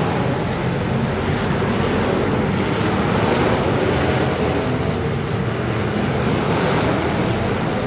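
Demolition derby cars' engines running together as a loud, steady mass of engine noise, with no single crash standing out.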